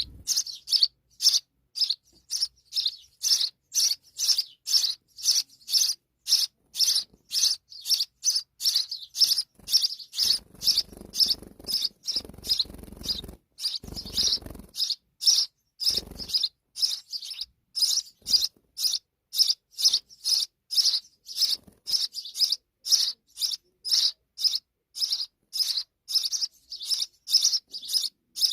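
A sparrow chirping over and over in short, evenly spaced, high chirps, about two to three a second.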